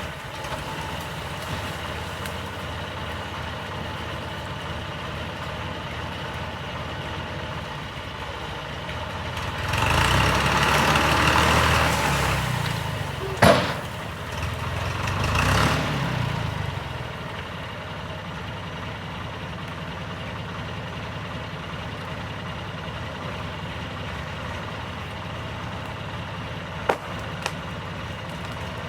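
An old John Deere tractor's diesel engine runs steadily, then revs up under load for a few seconds about ten seconds in and again briefly a little later. A single sharp bang comes between the two rises.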